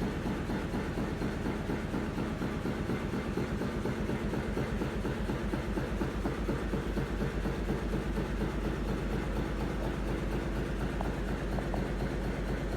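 Petter Atomic stationary engine running steadily at an even speed, with a regular beat of firing strokes.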